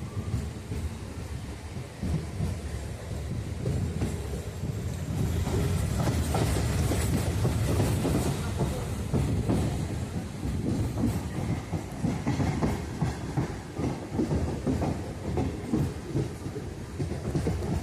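Passenger train running along the track, its wheels clattering over the rail joints in a steady clickety-clack over a low rumble, growing louder about five seconds in.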